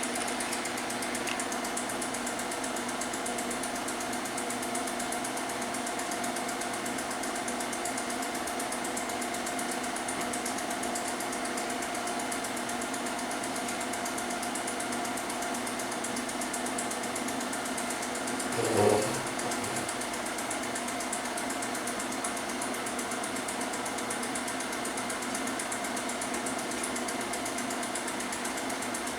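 A small machine running steadily with an even, rapid mechanical rattle and whir. One brief louder pitched sound comes about two-thirds of the way through.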